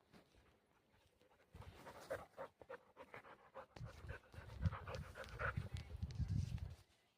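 Rapid panting breaths, starting about a second and a half in, mixed with soft rustling and light knocks.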